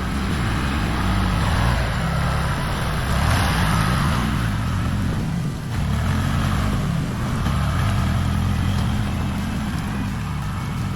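A heavy diesel engine running steadily at work, its level swelling and easing a little.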